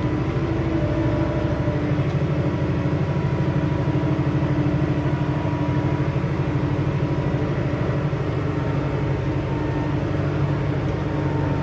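Diesel farm machinery engine running steadily with a rapid, even pulse, and a thin steady whine above the engine note.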